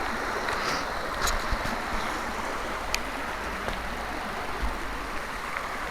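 Steady rushing water from a stream or waterfall, with a few sharp clicks over it.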